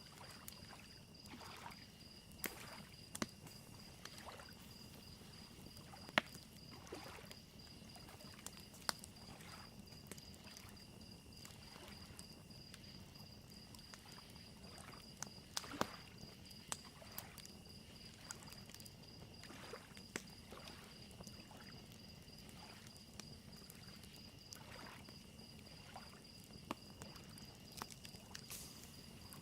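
Crickets chirping in a steady, even trill, with a wood fire crackling in scattered sharp pops and soft lake waves lapping underneath.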